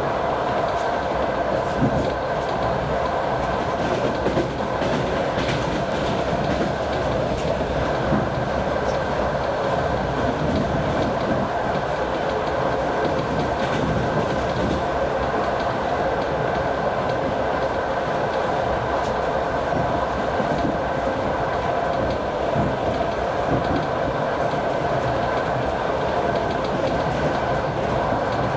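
Moving passenger train: wheels clattering over the rails, with the steady drone of the TEP70 diesel locomotive's V16 engine heard from aboard the train.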